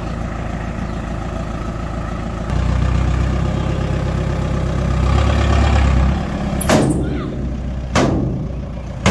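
Heavy diesel engine of earthmoving machinery running, getting louder and deeper about two and a half seconds in as it works harder, then easing off around six seconds. Two sharp knocks follow near the end.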